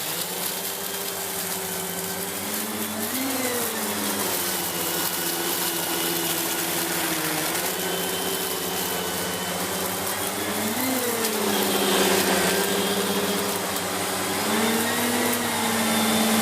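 Siemens Z6 Power 2500 W bagged cylinder vacuum cleaner running steadily and pulling rice up from a carpet, its motor pitch lifting briefly a few times as the floor head moves. There is a short rattling rush about 12 seconds in.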